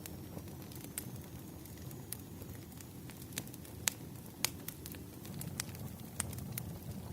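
Wood fire burning: a steady low rumble with irregular sharp crackles and pops of the burning logs, the loudest pops a little before the middle.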